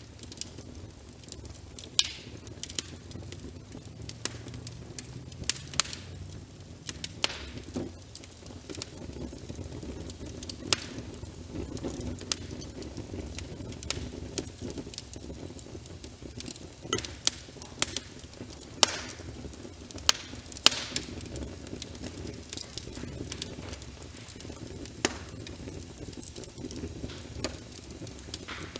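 Wood fire crackling in a fireplace, with irregular sharp pops every second or so over a steady low rumble.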